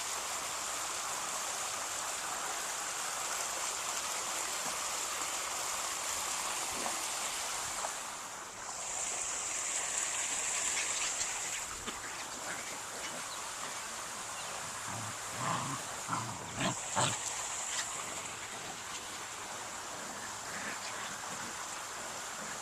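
Puppies playing with their mother dog over a steady hiss, with a few short puppy vocalisations about 15 to 17 seconds in.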